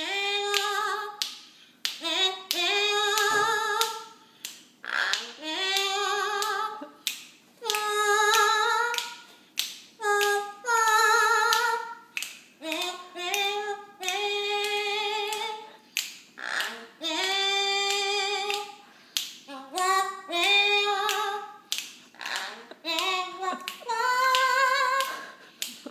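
Eclectus parrot singing in imitation of a human voice: drawn-out, wavering notes in phrases of a second or two, with short breaks and sharp clicks between them.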